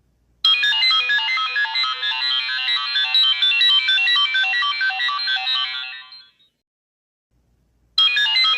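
A mobile phone ringtone: a quick, high-pitched electronic melody of many short notes that fades out about six seconds in. After a brief silence, another ringtone starts near the end.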